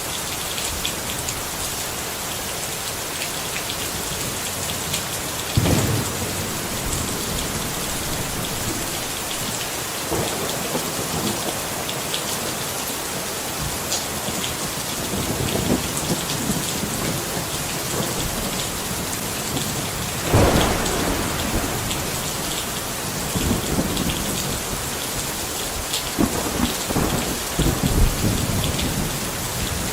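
Steady rain falling, with several low rumbles of thunder; the loudest roll comes about two-thirds of the way through.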